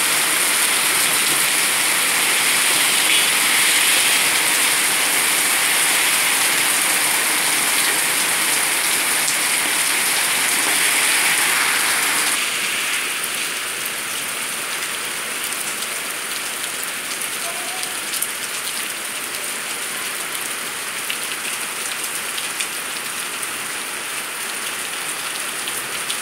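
Heavy rain pouring onto stone pavement and the street, a steady hiss that drops a little in loudness about halfway through, with a few sharper drop ticks later on.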